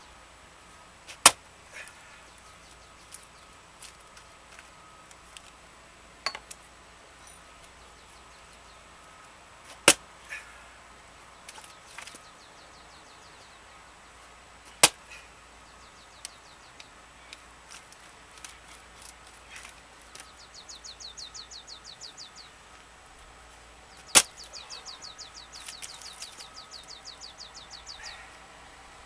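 Axe striking the centre of a dry larch round that does not split easily: four heavy, sharp chops several seconds apart, with lighter knocks in between.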